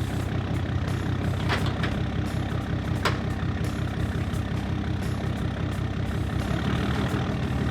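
A truck engine idling steadily, with two short sharp clicks about a second and a half apart.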